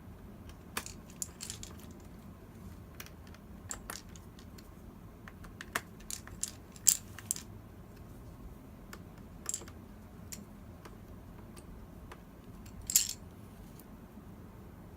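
Scattered light metallic clicks and taps of small screws and a screwdriver being handled during computer reassembly, irregular, with a sharper click about seven seconds in and a short rattle of taps near the end.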